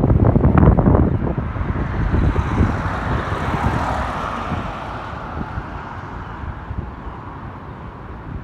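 Wind buffeting the microphone for about the first second, then a broad rushing noise that swells over a couple of seconds and slowly fades away.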